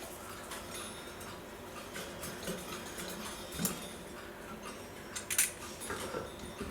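Sparse light metallic clicks and clinks of small clock parts being handled and fitted by hand while a clock's gear train is assembled, over a faint steady hum.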